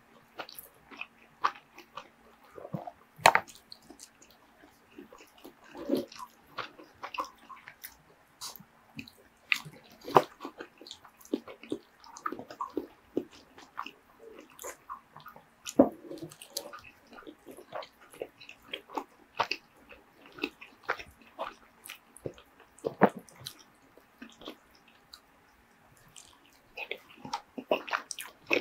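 Close-miked chewing and wet mouth sounds of a person eating kalua pork and rice, with irregular soft smacks and clicks.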